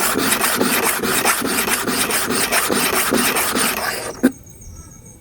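Hair clipper blade in its holder being rubbed rapidly back and forth on an oiled diamond sharpening stone, a steady gritty rasp of metal on stone. The strokes stop about four seconds in, followed by a single click.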